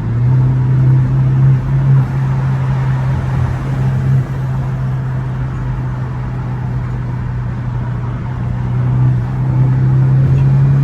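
BMW 428i coupe engine with an aFe cold-air intake, heard from inside the cabin, holding a steady high drone under load. It eases off a little in the middle and builds again near the end.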